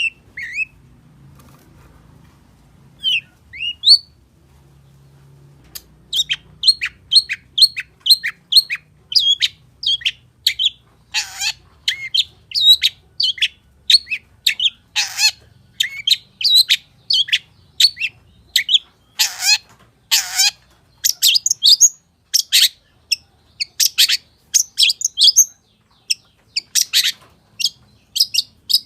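Long-tailed shrike (cendet) singing: a few scattered high calls, then from about six seconds in a fast run of sharp, high, falling notes, about two a second, broken by several harsher, rasping notes.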